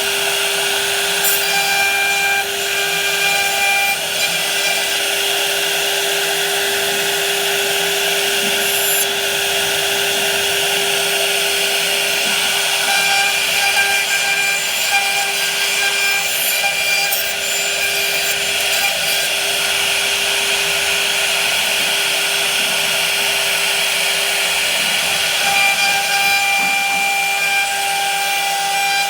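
A power tool working wood: a continuous rough cutting noise over a steady motor tone. Some higher tones drop out and come back at times.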